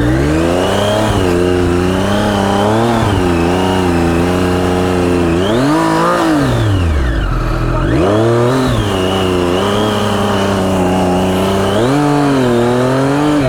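Motorcycle engine revved up and down in low gear, its pitch swelling and falling back about five times, with the highest swell about six seconds in.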